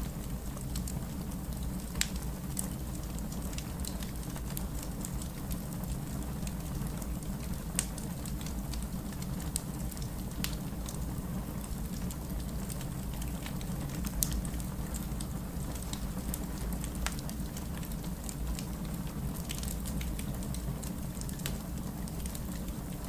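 Fireplace fire crackling: scattered sharp pops and snaps over a steady low rumble, with a few louder pops along the way.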